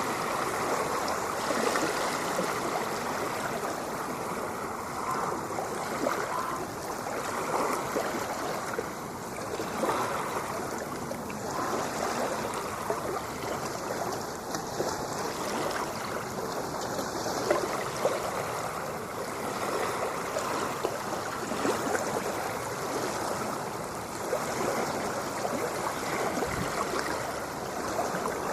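Ocean water washing and gurgling continuously, fairly steady in loudness with only slight swells and no distinct breaking waves.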